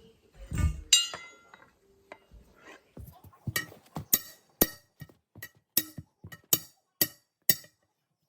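Steel tyre bars striking and working against a truck wheel rim, a sharp metal-on-metal clink about twice a second, each with a short ring: the bead of an 11R22.5 truck tyre being broken off the rim by hand. A heavier thud and a ringing clank come about a second in.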